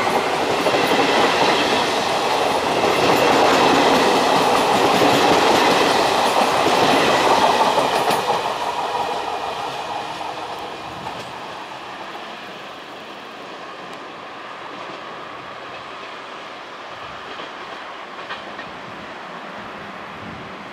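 Electric regional passenger train passing close by and running off into the distance. It is loud for about the first eight seconds, then fades over the next few seconds to a faint, steady sound, with a couple of faint clicks near the end.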